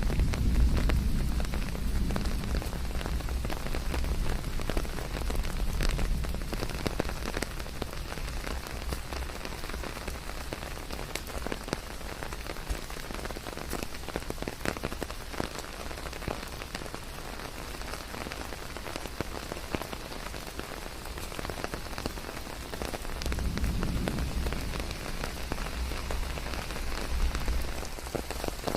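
Steady rain falling on a surface, with individual drops heard as fine ticks throughout. A low rumble underneath is stronger at the start and swells again near the end.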